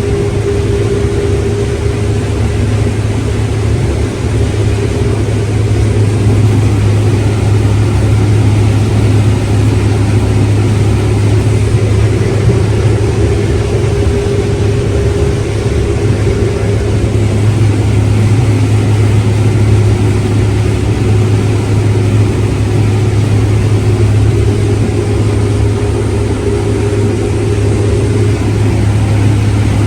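Farm machinery engine running steadily, a continuous low drone with a faint steady tone above it.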